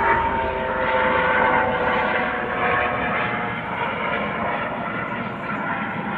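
Eurocopter AS365 Dauphin helicopter flying past, its whine falling slightly in pitch while the sound slowly fades as it moves away.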